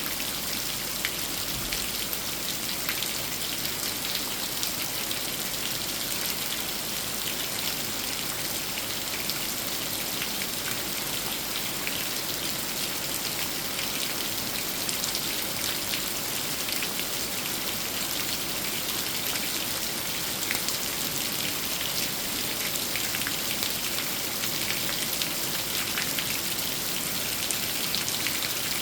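Steady rain falling on and around a large old tree: an even hiss with many single drops heard as sharp little ticks, unchanging throughout.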